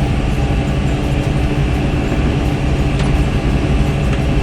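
Tractor engine running steadily under load, driving a hay mower that is cutting grass: a constant low drone.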